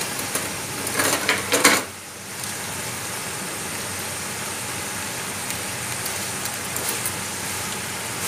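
Ghee sizzling steadily in a metal pot as black-eyed beans and whole spices fry. A metal slotted spoon clatters against the pot a few times about a second in.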